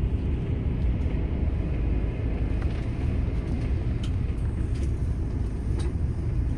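Airport apron bus heard from inside the cabin: a steady low engine and road rumble, with a few faint clicks about four and six seconds in.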